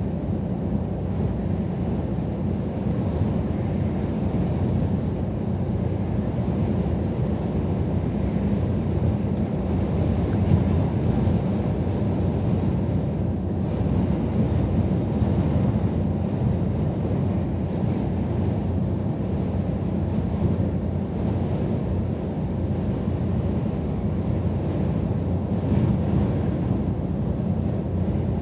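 Scania R500 truck driving at a steady pace: its diesel engine and the road noise make a steady low rumble.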